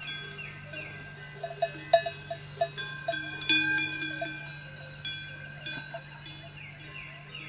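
Bell-like ringing tones with a quick run of short clanks about one and a half seconds in, over repeated falling bird chirps and a low steady hum; the bells are typical of livestock bells.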